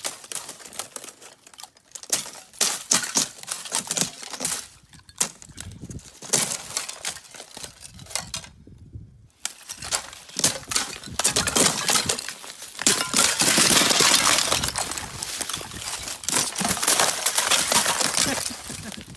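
Ice cracking and breaking in many sharp crunches and clinks, sparse at first and turning to dense, continuous crackling in the second half.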